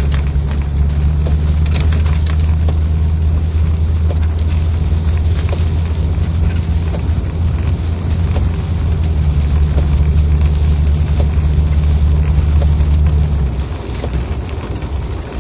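Inside a moving car in rain: a steady low engine and road drone with raindrops ticking on the roof and windshield. The drone eases off about two seconds before the end.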